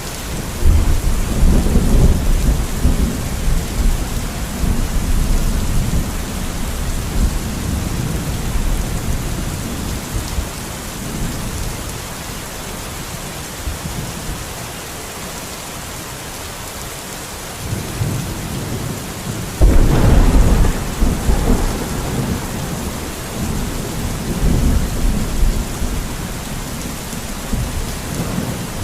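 Steady rain hissing, with thunder rumbling over it. A rumble starts about half a second in and rolls for several seconds; a louder clap comes about two-thirds of the way through and rumbles on afterwards.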